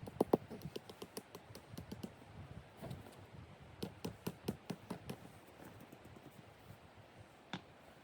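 Footsteps of a hiker walking on a rocky trail: irregular clicks and taps, several a second, with one sharper click near the end.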